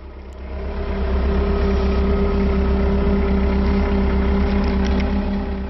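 Diesel engine of a JCB 515-40 telehandler rising in revs about a second in, holding steady with a hum, and dropping back near the end.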